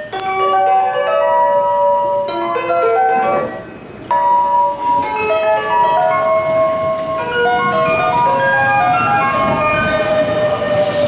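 Electronic chime melody playing over railway station platform speakers, a tune of short bell-like notes. Near the end the rumble of an approaching train builds under it.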